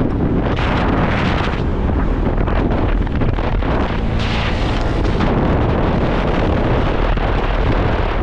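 Wind buffeting the microphone of a moving motorcycle, a steady rush over the bike's engine and road noise, with two louder gusts about half a second and four seconds in.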